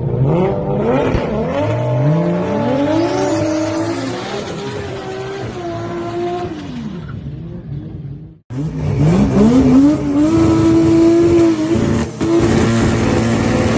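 Turbocharged 2JZ inline-six in a swapped Toyota truck, accelerating hard: the pitch climbs twice, holds at high revs, then falls away. After an abrupt cut about eight seconds in, it climbs again and holds at high revs.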